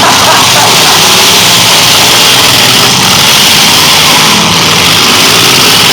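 Demolition derby cars' engines running together, a loud, steady, distorted mix with no single crash standing out.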